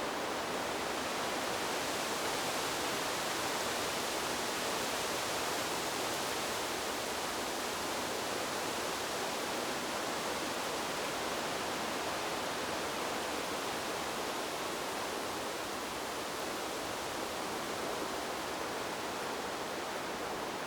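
Wind blowing through a bamboo grove: a steady, even hiss with no breaks or gusts standing out.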